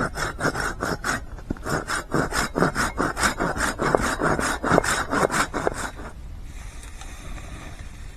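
Silky Bigboy 2000 folding pull saw cutting through wood: quick, even back-and-forth strokes, about three or four a second, that stop about six seconds in.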